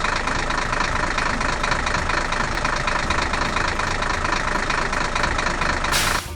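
A vehicle engine running steadily, as a cartoon sound effect, with a short burst of hiss just before it cuts off near the end.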